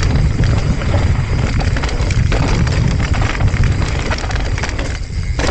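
Wind rumbling on the microphone over the rattle and crunch of a mountain bike descending a fire road at speed: tyres on dirt and loose stones, with a steady clatter of many small knocks.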